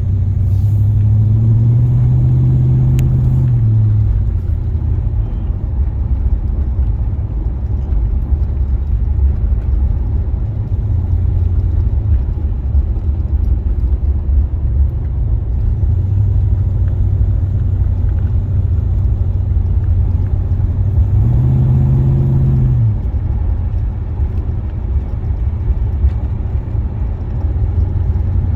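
1976 Oldsmobile Cutlass Salon's 455 Rocket V8 and tyre noise while driving, a steady low rumble. Twice the engine note climbs, holds and drops, near the start and again about three-quarters of the way through.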